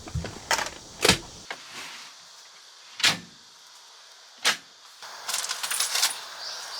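Four separate sharp knocks or clunks a second or more apart, then a rustling, crackling hiss from about five seconds in.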